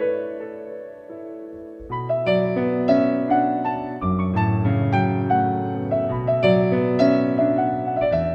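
Background piano music: a held chord fading for the first two seconds, then new notes and a low bass line coming in.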